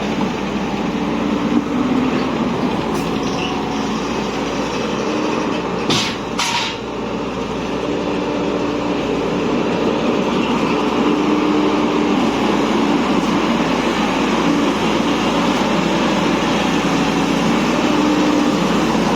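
Steady noise of a moving vehicle, engine and road running on without a break. A low hum wavers in pitch, and two sharp knocks come about six seconds in.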